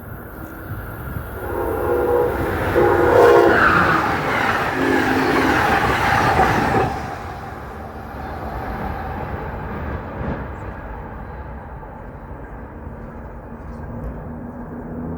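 A train sounding its horn in three blasts as it approaches and passes, the rush of the train loudest in the first half and dropping off after about seven seconds, with rail noise running on after.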